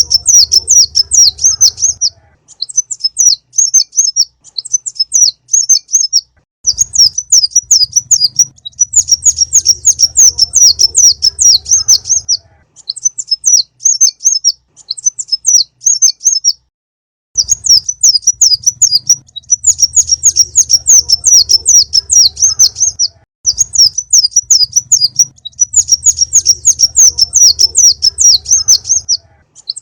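Sunbird (konin) song: rapid, high-pitched chirping trills in bursts lasting several seconds, separated by short pauses, with a faint low hum under each burst. It is a full-song 'masteran' lure recording used to call sunbirds in for trapping.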